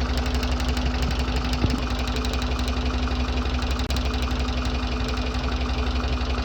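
Car engine idling with rapid, regular sharp ticks of high-tension spark arcing through a leaking spark plug wire, plus one louder snap about two seconds in. The arcing lead is the cause of the engine's misfire under load.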